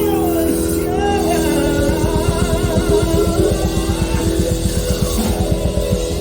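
Hard rock music: electric guitar with sliding, bending notes over a fast, dense low-end pulse.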